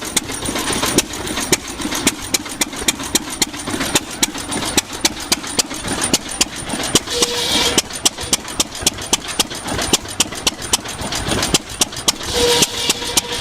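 Antique engine driving a sawmill demonstration, running with sharp, evenly spaced exhaust pops several times a second. Twice, about seven seconds in and near the end, a short hissing whine rises over it, likely the saw cutting.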